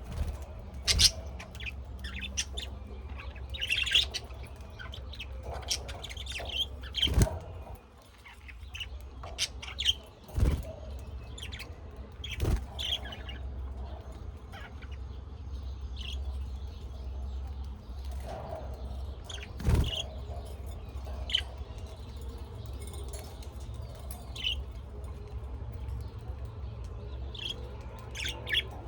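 Small birds chirping in short, scattered calls, with a few sharp knocks and a steady low rumble underneath.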